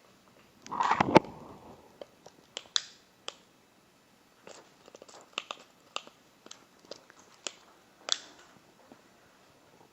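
Light clicks and taps of small objects being handled at a work table, with a louder knock and rustle about a second in, then scattered single clicks.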